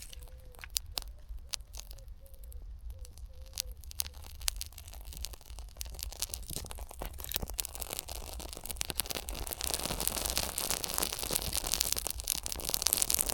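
Birch bark fire crackling as it catches: a few scattered pops at first, building into a dense, steadily louder crackle.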